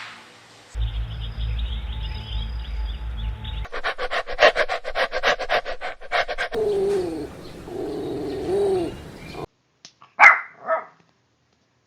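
Small-breed puppies in a string of short clips: a fast, even run of short yaps, then drawn-out whining cries that rise and fall in pitch, and after a brief silence two sharp yelps near the end. A low rumble runs under the opening clip.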